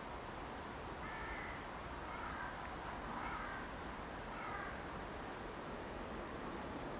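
A bird gives four short calls in the first five seconds, over steady outdoor background noise, with a few faint high chirps.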